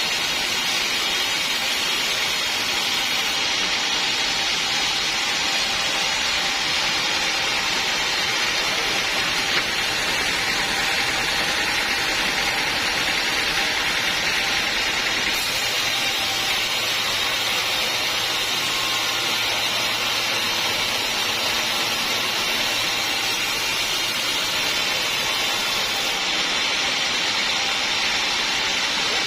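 Sawmill saw machinery running steadily: a loud, even hiss with a high whine in it, with no pauses or sharp knocks.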